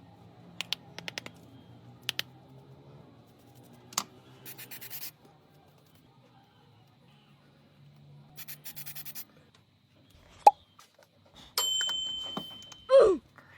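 Small handling sounds: scattered light clicks and taps, and two short bursts of rapid scraping or rattling. Near the end comes a steady high electronic beep lasting about a second and a half.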